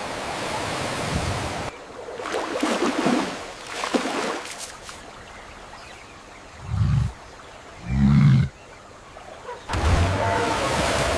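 Rushing water, which cuts off about two seconds in. Two short, low animal calls come about a second apart, and the rushing returns near the end.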